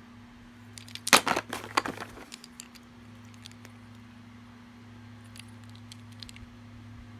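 Toy packaging being handled: a short burst of plastic crackling and clicks about a second in, then a few faint clicks later, over a steady low hum.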